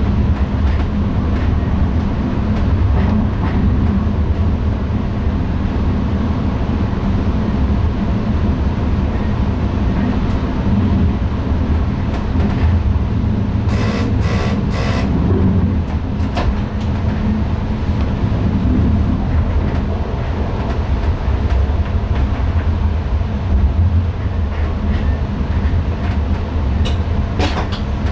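NS ICM electric intercity train running at speed, heard from inside the driver's cab: a steady rumble of wheels on rail. A short cluster of sharp clicks comes about halfway through, and a few more near the end.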